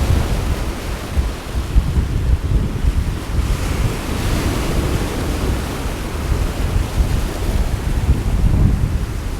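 Sea waves washing in, with gusting wind buffeting the microphone in a constant low rumble. A wave's hiss swells and fades about four seconds in.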